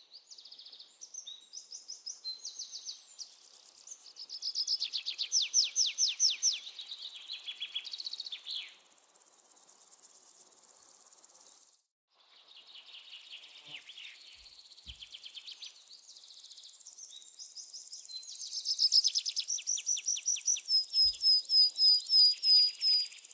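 Small forest birds calling, with overlapping fast trills and chirping series. The calls are loudest a few seconds in and again near the end, where one bird repeats a quick run of evenly spaced notes. The sound cuts out briefly near the middle.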